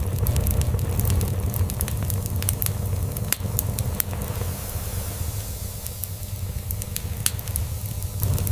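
Log fire crackling, with irregular sharp pops and snaps over a steady low rumble of a cat purring.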